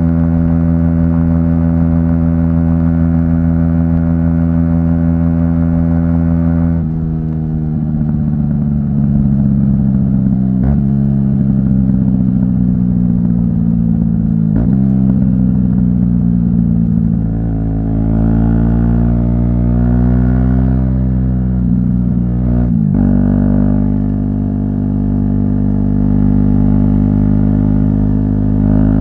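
Aprilia SX 125's 125 cc single-cylinder engine running through an Arrow exhaust with the dB killer removed, heard while riding. The note holds steady at first, drops about seven seconds in, then climbs and falls several times with a few brief breaks in the note.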